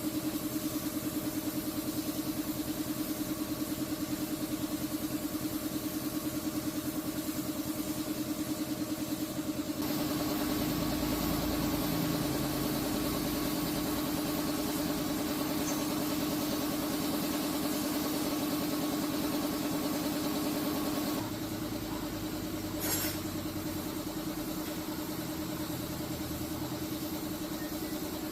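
An engine running steadily at idle, with a fast even pulse. The sound shifts abruptly twice, about a third and two-thirds of the way through, and a brief sharp noise comes shortly after the second shift.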